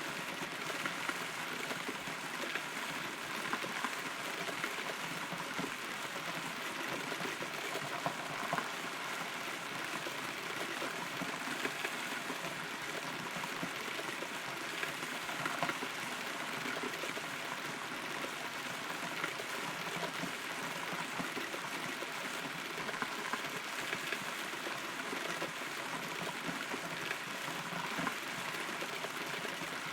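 Steady rain heard from inside a hollow rotten tree trunk: an even patter with scattered louder drops striking the wood.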